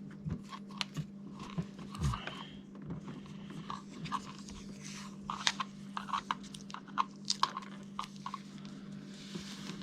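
Irregular small clicks, taps and crinkles of hands handling electrical wires and tape, busiest in the second half, over a steady low hum.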